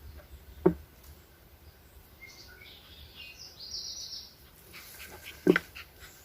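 Outdoor ambience with faint bird chirps in the middle, broken by two sharp taps, one near the start and one near the end.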